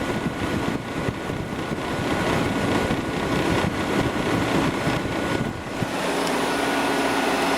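2002 Whirlpool 5,000 BTU window air conditioner running on high fan speed with its Rechi rotary compressor on: a steady rush of air over a faint steady whine. Near the end the low rumble eases and a steady hum comes through.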